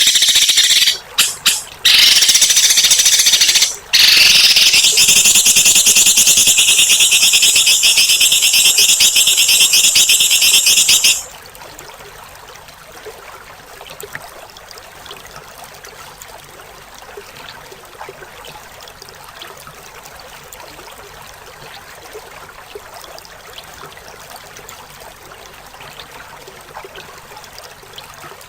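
A songbird giving a loud, harsh, rasping call (the 'mbeset' or 'besetan' call used to train cage birds), with brief breaks near the start. It stops suddenly about eleven seconds in, leaving a faint hiss with scattered soft ticks.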